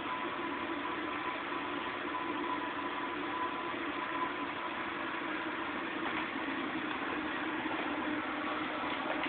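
Wood fire burning in a Napoleon wood fireplace, heard under a steady hum and hiss, with a few faint crackles.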